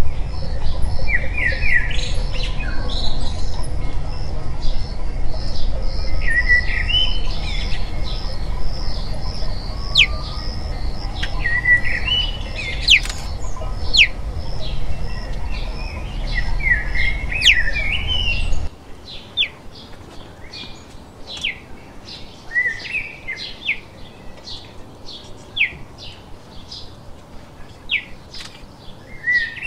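Birds chirping and calling repeatedly in short warbled phrases and sharp notes, over a low steady rumble that cuts off abruptly about two-thirds of the way through; after that only the bird calls remain.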